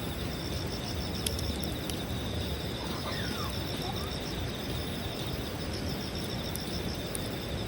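Campfire crackling with a few sharp pops, over the steady rapid chirping of night insects; a short gliding call sounds about three seconds in.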